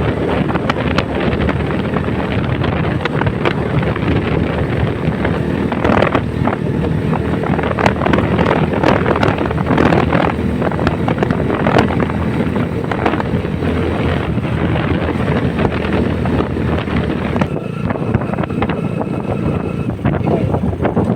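Heavy wind buffeting on the microphone of a motorcycle under way, with the ride's engine and road noise underneath.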